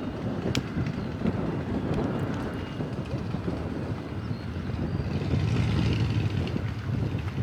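Strong wind buffeting the microphone: a steady low rumble that swells about five seconds in.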